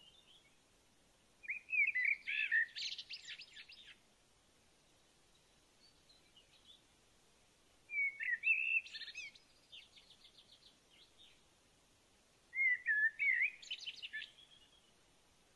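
A songbird singing three short phrases of quick, high chirps and warbling notes, each two to three seconds long, with pauses of several seconds between them.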